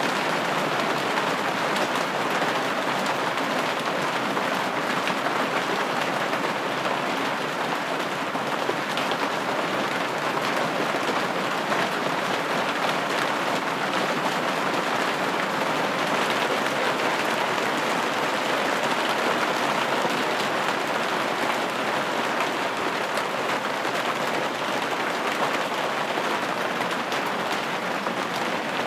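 Steady rain falling on a window pane: an even hiss with many fine drop taps on the glass, unchanging throughout.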